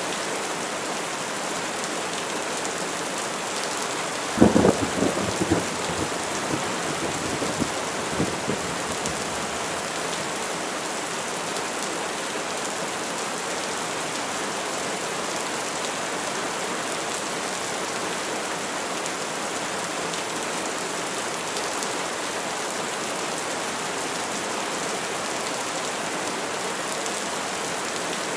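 Steady heavy rain hissing, with a sharp crack of thunder about four seconds in that rumbles and crackles for several seconds before fading back into the rain.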